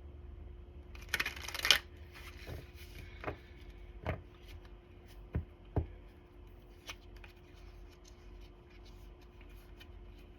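Tarot cards being shuffled and handled: a brisk rustling shuffle about a second in, then scattered light taps and flicks of cards.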